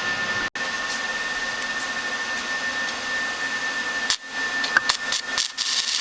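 Stick (MMA) welding arc from a Razorweld 195 inverter welder, hissing and crackling steadily, with a steady high whine under it. The arc sound breaks off briefly about four seconds in and again near the end.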